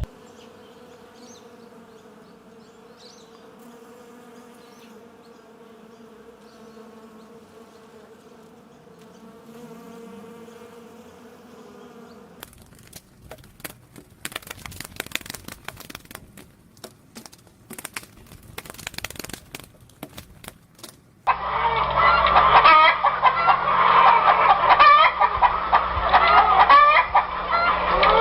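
A faint steady hum with even overtones, then scattered clicks and knocks, then, about three quarters of the way in, a loud, busy run of short calls from a flock of chickens clucking.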